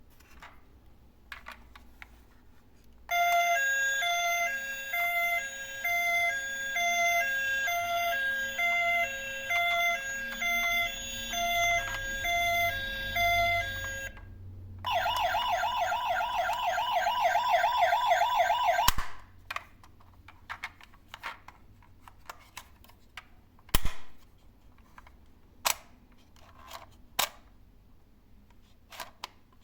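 A battery-powered toy garbage truck's sound gimmick plays an electronic tune of stepped beeps for about ten seconds. After a short break it gives a fast warbling siren for about four seconds. Scattered light clicks and taps of plastic follow.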